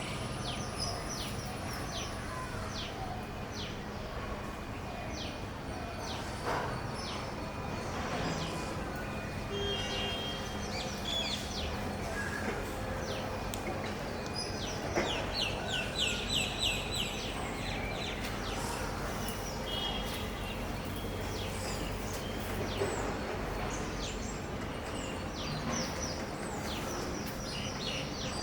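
Parrots calling: many short, high squawks sliding downward, scattered throughout, with a quick run of about seven louder calls about halfway through. A steady low hum of background noise lies underneath.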